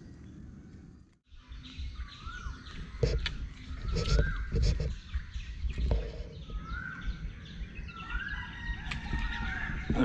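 A bird calling repeatedly, about six short notes that sweep up and then level off, roughly a second apart. Several dull knocks and rustles from handling close to the microphone sound under the calls.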